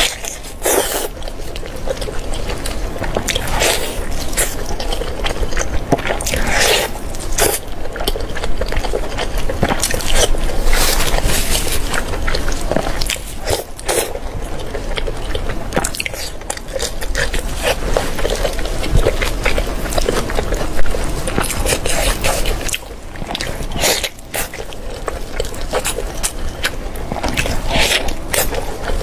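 A person biting and chewing pork belly close to the microphone, a run of irregular bites and wet chewing sounds.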